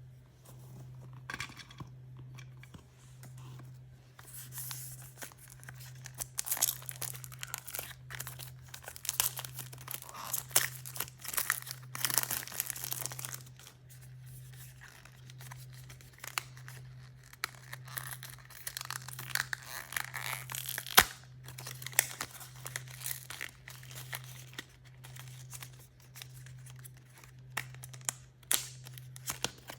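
Toy packaging being torn open and crinkled by hand: irregular tearing, rustling and crackling, with one sharp snap about two-thirds of the way through. A steady low hum runs underneath.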